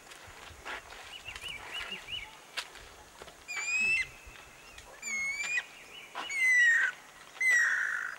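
Guira cuckoo calling. First comes a quiet run of short notes, then four loud whistled notes in the second half, about one a second, each rising and the last two sliding down at the end.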